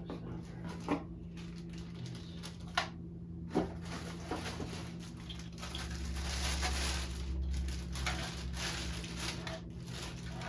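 Plastic plumbing-kit parts and packaging being handled: scattered light clicks and knocks, with a longer stretch of rustling and rubbing from about six to eight seconds in, over a steady low hum.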